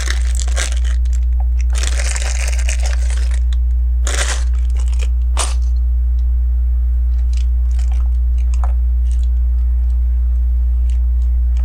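Plastic Lego pieces being handled: a rustle of crinkling plastic about two seconds in, then a few sharp clicks and scattered light taps of bricks. A steady low electrical hum runs underneath.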